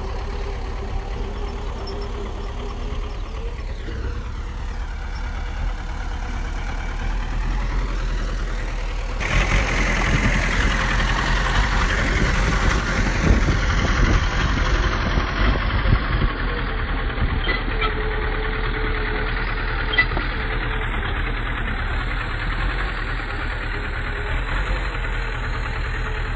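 Heavy diesel engine of a bulldozer running steadily, with clanking tracks; the sound jumps abruptly louder about nine seconds in.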